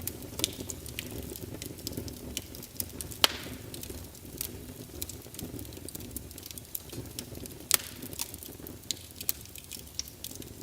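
Wood fire crackling in a fireplace: a steady low rumble of flames with frequent sharp pops and snaps, the loudest about three seconds in and near eight seconds in.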